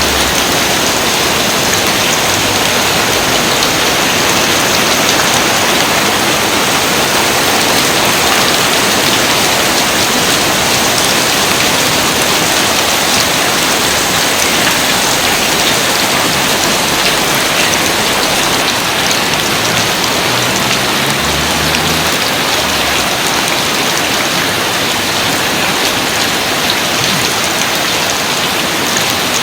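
Steady, heavy rain falling: a dense, even hiss of countless drops that keeps up without letting off.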